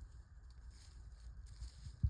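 Faint footsteps, soft and irregular, over a steady low rumble.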